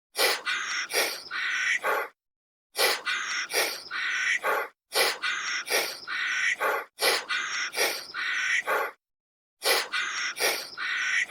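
Harsh animal calls in repeating blocks of about two seconds, each block made of several rasping strokes, with dead-silent gaps between blocks as from a looped recording.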